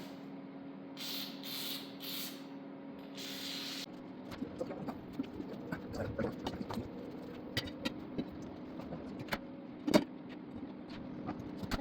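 A steady hum with a few short hissing bursts, the last one longer, stops about four seconds in. Then comes a run of small metal clicks and knocks, with one sharp clank near the end, as a two-piece ATV wheel is worked apart by hand.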